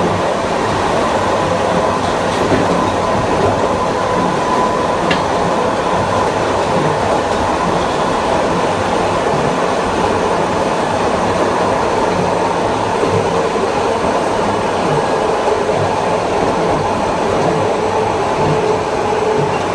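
Onboard sound of a Long Island Rail Road Kawasaki M9 electric multiple unit under way: steady wheel-and-rail rumble with a steady whine from the MELCO AC traction motors and IGBT-VVVF inverter, and a second, lower whine coming in about two-thirds of the way through.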